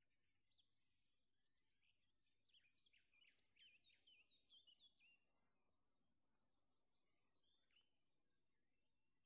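Near silence with faint birdsong: a short run of quick high chirps and down-slurred notes about three to five seconds in, with a few scattered chirps around it.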